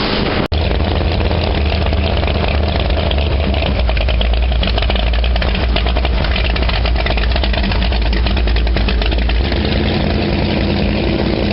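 Motorboat engine running steadily, with a brief break about half a second in.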